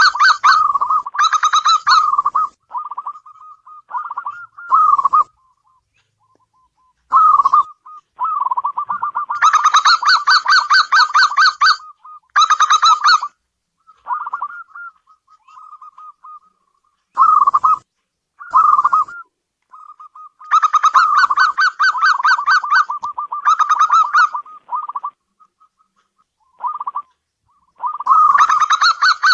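Zebra dove (perkutut) cooing: bouts of fast, rolling coos lasting one to three seconds, broken up by shorter, softer coos and brief pauses.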